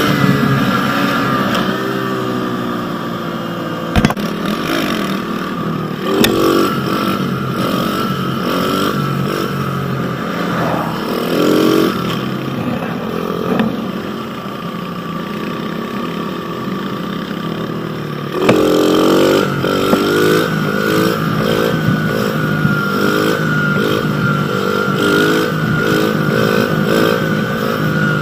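Pit bike engine riding along, its revs rising and falling; from about two-thirds of the way through it revs up and drops back over and over in quick succession. A sharp knock about four seconds in.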